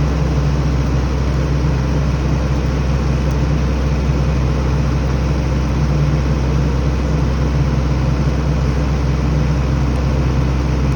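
Heavy vehicle engine running steadily at constant speed, a low, unchanging drone.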